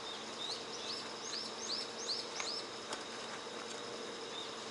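Outdoor ambience: a run of quick, high chirps, about three a second, for a couple of seconds, over a steady low hum, with a single click near the middle.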